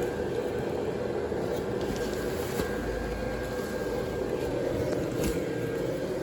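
The built-in blower fan of a Gemmy airblown inflatable decoration running, keeping it inflated: a loud, steady whirring hum.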